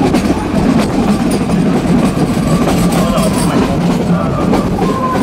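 Train running along the track, heard from on board: a steady loud rumble with irregular clicks of the wheels over the rail joints.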